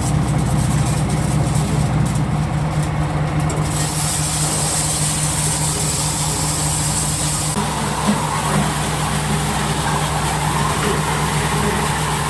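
Engine-driven corn sheller running steadily with a constant low hum. A high hissing rush joins in about four seconds in and stops near the middle, and a few light knocks follow in the later part.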